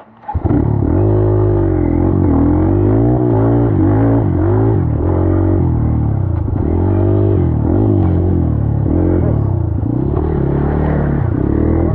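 Dirt bike engine running under a rider's throttle, its pitch rising and falling again and again as it revs up and eases off. It comes in suddenly just after the start.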